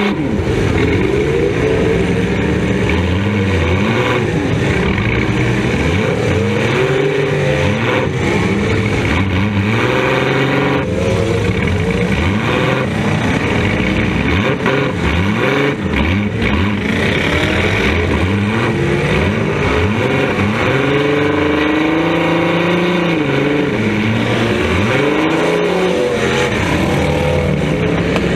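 Demolition derby car's engine, heard from inside the stripped cabin, revving up and falling back over and over as the car drives. A few sharp knocks are heard along the way.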